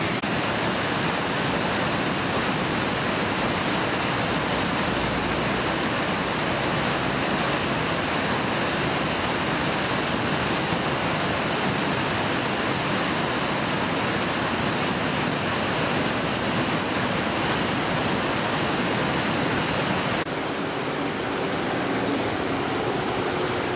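Mountain river rushing over rocks, a steady full roar of water. About twenty seconds in, it changes abruptly to a slightly quieter, duller rush.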